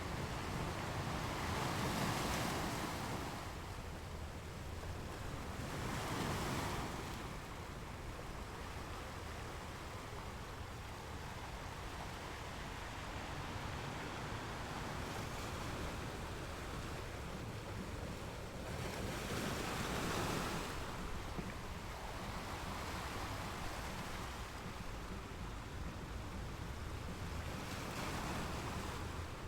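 Sea waves breaking and washing on a shore, a steady surf with louder swells every few seconds as individual waves come in.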